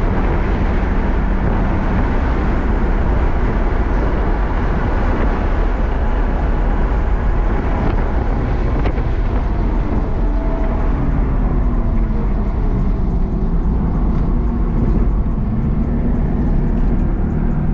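BMW M4 Competition's twin-turbo inline-six engine heard from inside the cabin at speed on track, mixed with heavy wind and road noise. About ten seconds in the rushing noise eases and the engine note becomes plainer, its pitch dropping and rising as the car slows for and drives through a corner.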